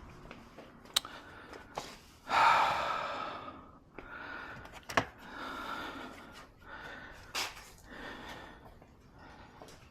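Hand work stripping a car interior: two sharp clicks, about one and five seconds in, and a short rushing noise about two and a half seconds in that fades over a second, among softer knocks and rustles.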